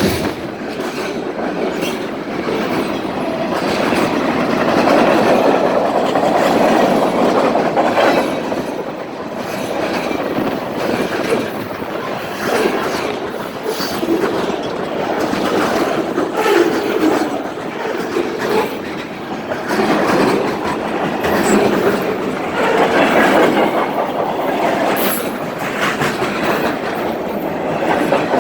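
Railroad cars of a long train rolling past close by: a continuous rumbling rush with wheels clicking and clattering over the rail joints, swelling and easing as the cars go by.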